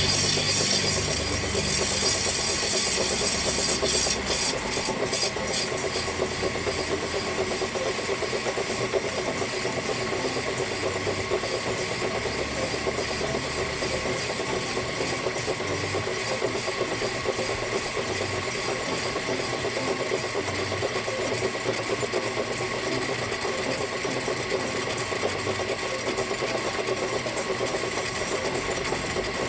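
A motor-driven machine running steadily at constant speed, a continuous mechanical hum with a few fixed steady tones.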